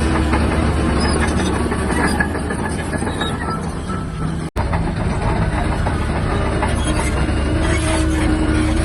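Shantui DH17-C3 bulldozer's diesel engine running steadily under load, with its steel tracks clattering. The sound cuts out for a split second about halfway through.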